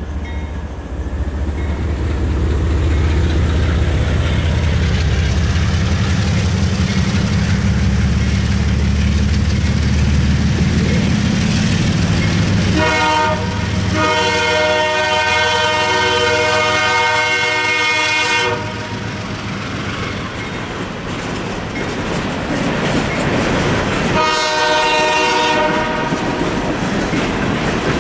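Two GE ES44 diesel locomotives rumbling past for the first dozen seconds. The locomotive horn then sounds a chord twice: a long blast of about five seconds starting about 13 s in and a shorter one near the end. Throughout, the train's hopper cars clatter over the rail joints.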